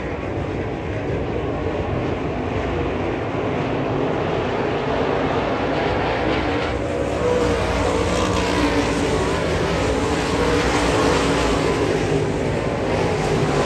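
Dirt late model race cars running at speed on the track, their engines a steady, continuous din that grows slowly louder.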